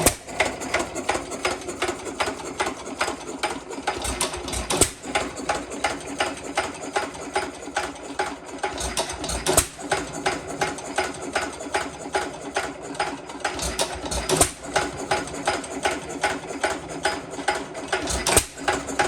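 A 1 1/2 hp Sandwich hit-and-miss engine running: an even clicking at about five a second as it coasts, broken by a louder firing stroke roughly every five seconds.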